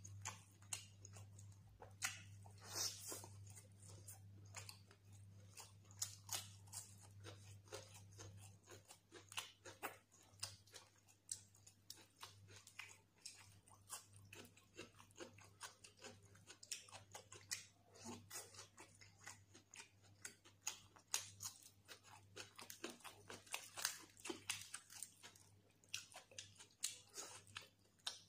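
Quiet close-up eating sounds of fried whole fish: steady chewing with many small crunches and crackles of the crisp fried skin and fingers picking the flesh apart.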